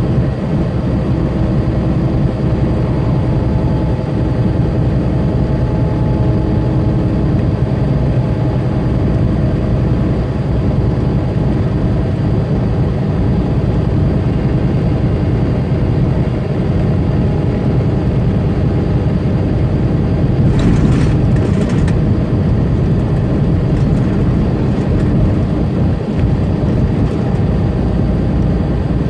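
Semi truck's diesel engine and road noise heard from the cab while cruising at highway speed: a steady low rumble with an even engine drone. About two-thirds of the way through there is a brief hiss.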